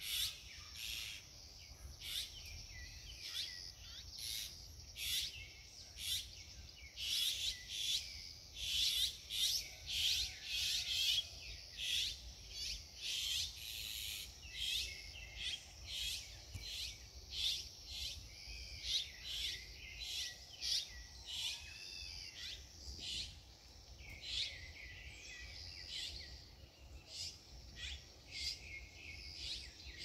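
Songbirds chirping and calling over and over, many short sharp notes with some brief warbled phrases, busiest around the middle. A low steady rumble runs underneath.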